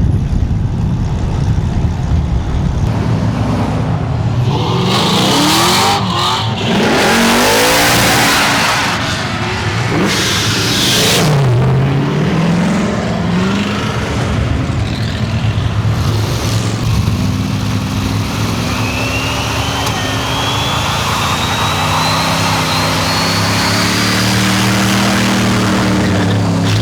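Car engines revving hard, their pitch rising and falling, with several loud rushing bursts about five to eleven seconds in. After that, engines run steadily, and a thin whistle climbs slowly in pitch for a few seconds.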